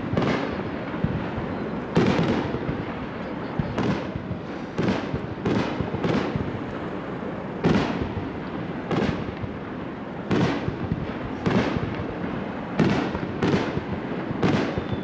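Aerial firework shells bursting in quick succession: about a dozen sharp booms, each trailing off into an echoing rumble, some only half a second apart.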